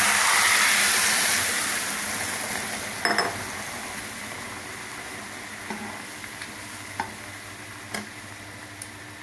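Boiled chana dal hitting the hot oil and fried spices in a kadai: a loud sizzle that slowly dies down as the dal settles. A metal spatula stirring it clinks against the pan a few times.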